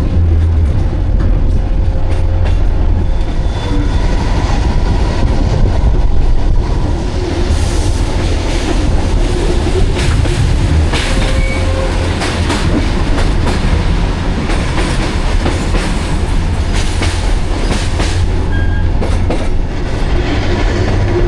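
Kuranda Scenic Railway tourist train running along the track, heard from on board: a steady, loud low rumble of wheels on rails, with scattered clicks from the rail joints and a few brief squeals from the wheels.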